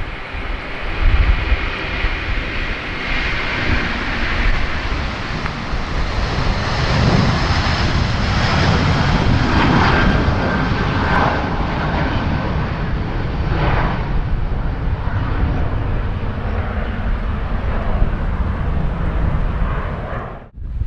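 Airbus A330 twin-jet airliner on its takeoff run, the engines at takeoff thrust, with strong wind buffeting the microphone. The sound cuts off briefly near the end.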